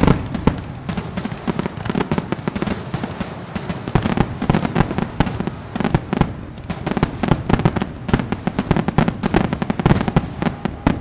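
Fireworks display: a dense, continuous barrage of crackling pops and bangs, many per second, with deeper booms underneath.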